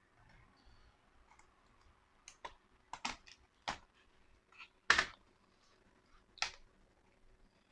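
Sharp plastic clicks and taps from a laptop's case and keyboard being handled during disassembly, about eight irregular clicks, the loudest about five seconds in.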